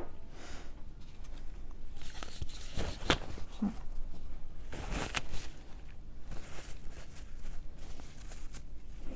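Soft rustling and rubbing of a tissue wiping the prism of a handheld sugar refractometer, with a few light clicks and knocks as the meter is handled, about three and five seconds in.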